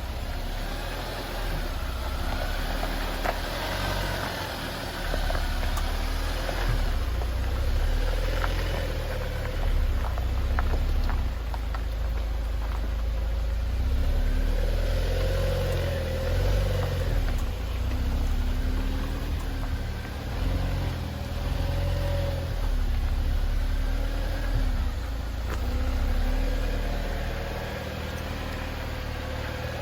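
Jeep Wrangler's engine at low crawling speed, its pitch rising and falling with the throttle as it works over deep rutted ground, with a few light knocks.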